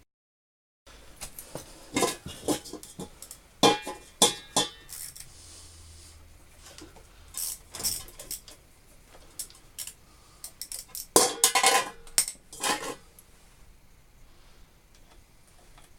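Metal tools clinking and knocking against an old Lister pump while its cover nuts are undone with a spanner, in scattered clusters of sharp clinks.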